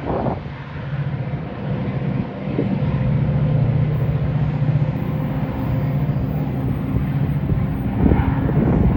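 Metra commuter train on the move, its diesel locomotive giving a steady low engine drone, with a denser clatter of knocks near the end.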